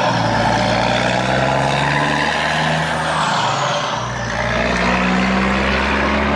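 Heavy-vehicle engine running steadily, its pitch drifting slowly up and down.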